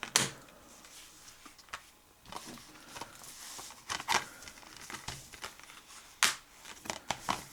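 Plastic Blu-ray case and its discs being handled: scattered clicks and snaps, three of them sharper, with a stretch of soft rustling in the middle.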